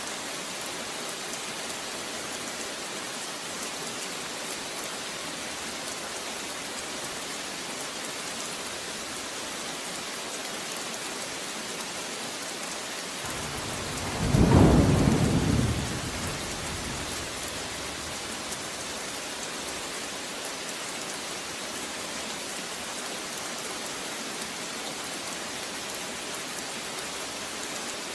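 Steady heavy rain falling, with one clap of thunder about halfway through that rumbles up, peaks loudly and dies away over about three seconds.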